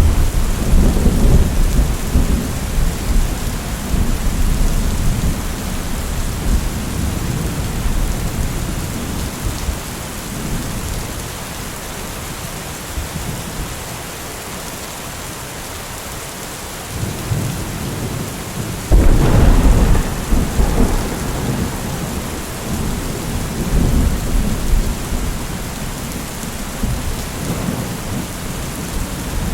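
Steady rain with rolling thunder: a long low rumble at the start that fades over about ten seconds, then a sudden louder thunderclap about two-thirds of the way through that rumbles on and dies away.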